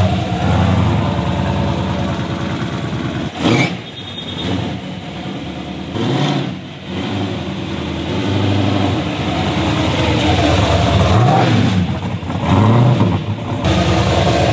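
Dodge Charger replica's engine running as the car drives by, revving up and easing off several times, with a few abrupt breaks in the sound.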